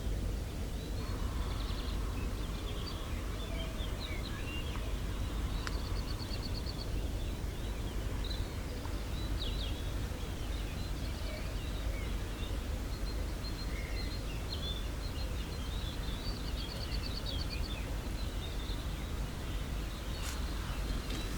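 Small songbirds chirping all through, with two rapid trills, one about six seconds in and one near the end, over a steady low background rumble.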